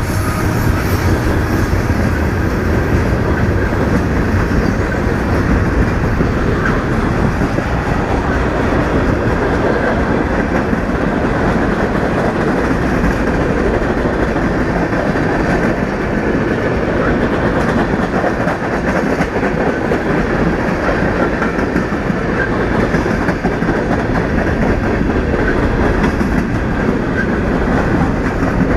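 Union Pacific freight train rolling past at close range: a steady, loud rumble of wheels on rail with some clickety-clack from the passing cars.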